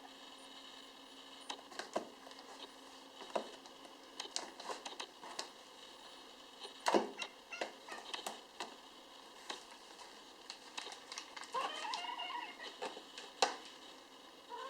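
Kittens playing on a tube: scattered light taps, clicks and scrabbling of small paws and claws, with a louder knock about halfway through. A kitten gives one short mew near the end.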